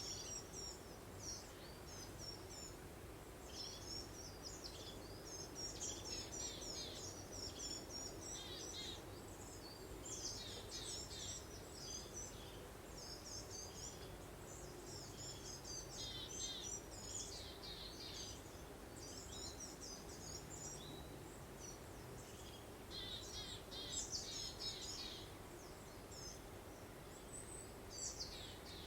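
Songbirds chirping and twittering in quick high bursts that come and go every second or two, over a steady soft rush of breeze.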